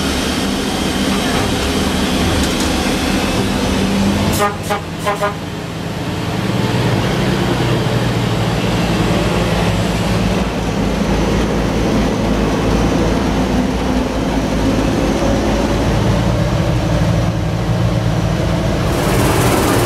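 Excursion train's locomotive running with a steady low rumble, sounding a few short horn toots about four to five seconds in.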